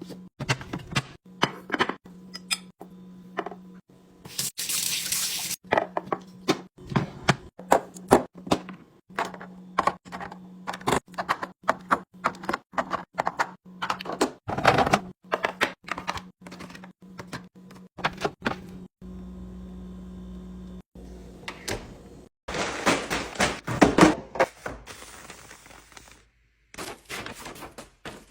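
Quick succession of clicks, taps and clunks from food containers, lids, jars and bottles being set down and handled. Liquid is poured for about a second a few seconds in, and again for a couple of seconds near the end.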